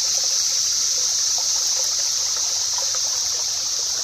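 Water trickling and splashing in a small stream, under a steady high-pitched drone of a cicada chorus that runs on unchanged.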